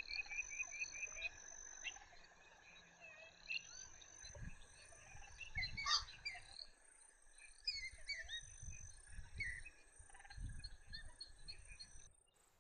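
Wetland ambience: frogs and insects calling, with steady high-pitched insect drones, a fast pulsing call in the first second or so, and scattered short bird-like chirps.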